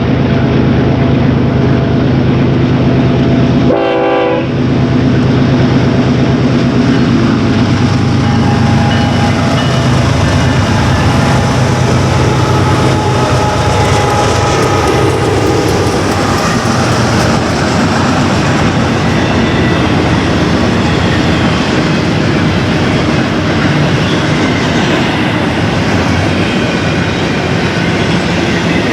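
BNSF westbound intermodal freight train passing close by. For the first several seconds the diesel locomotives' engines run steadily, with a brief horn note about four seconds in. Then the rolling intermodal cars take over with a continuous rumble and wheel clatter.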